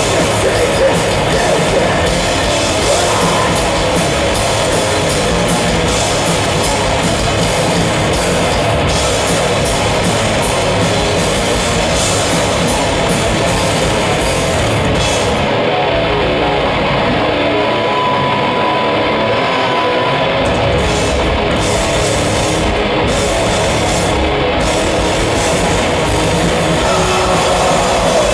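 Live heavy metal band playing loud, with guitars and drum kit. Past the middle the cymbals and drums drop out for several seconds, leaving the guitars ringing on, then drum hits come back in.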